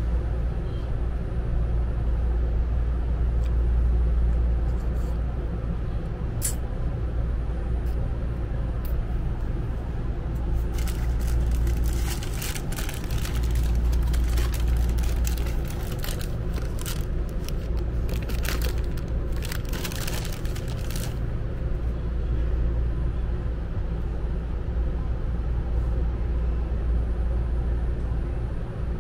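Interior running noise of a legacy-fleet BART train car: a steady low rumble that swells and eases. Through the middle there is a stretch of crackly rustling and clicks.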